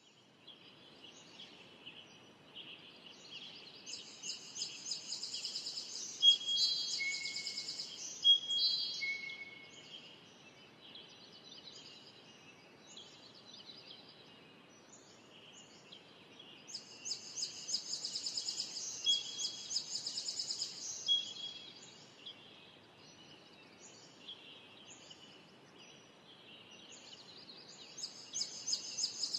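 Songbird singing a fast, chattering song in bouts of about five seconds that come back roughly every thirteen seconds, with a few short clear whistled notes in each bout and softer calls between bouts.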